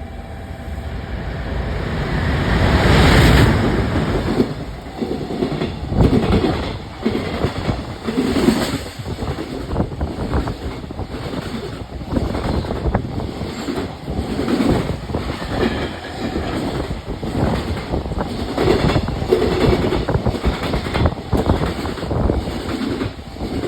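EF510 electric freight locomotive going by, loudest about three seconds in, followed by its train of wagons clattering past with repeated wheel clacks over the rail joints.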